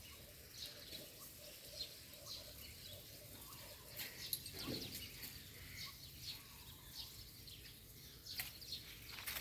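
Birds chirping, with a few faint sharp clicks and one brief low sound about halfway through.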